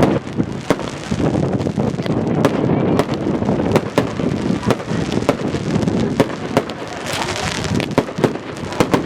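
Firecrackers popping irregularly, many sharp cracks a second, over a steady low rumble.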